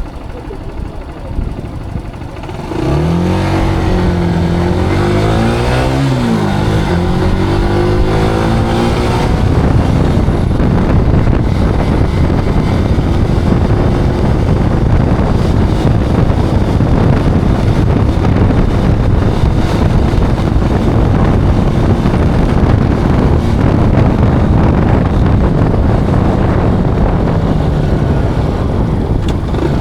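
Zontes cruiser motorcycle engine pulling away from a stop about three seconds in and accelerating through the gears, its pitch climbing and falling back with each upshift. It then holds a steady cruising speed, with the engine buried under loud rushing wind and road noise.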